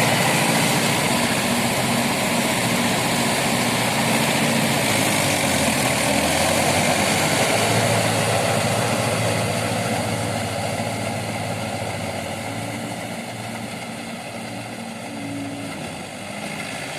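Tractor engine running steadily, fading somewhat in the second half and picking up a little near the end.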